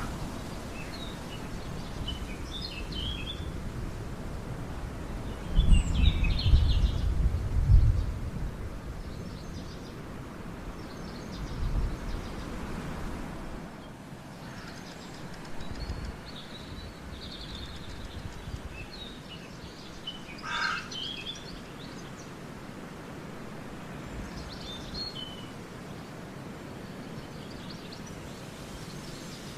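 Small birds chirping here and there over a steady outdoor background. A loud low rumble about six seconds in lasts a couple of seconds.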